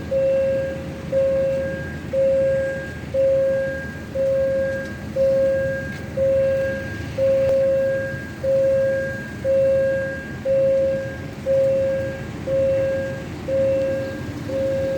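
Railway level-crossing warning bell ringing about once a second, each ring a single clear tone that fades, over a low rumble.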